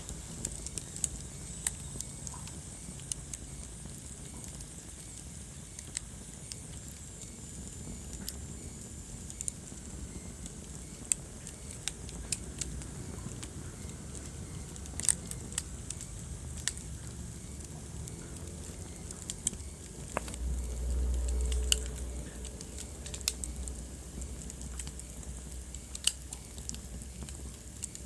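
Wood fire burning in a fireplace: a steady low rumble of flames with sharp, irregular crackles and pops. About two-thirds of the way through, a louder low rumble swells for a second or so.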